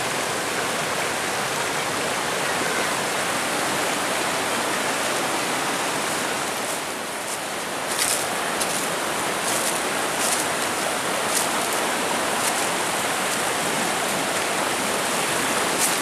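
Rushing water of a jungle river or waterfall, a steady even hiss that dips briefly near the middle. A few short high clicks are heard over it in the second half.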